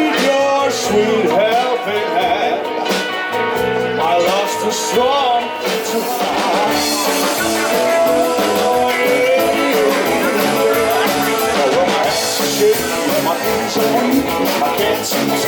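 Rock cover band playing live: guitar, bass and drums with a steady beat, and a lead singer.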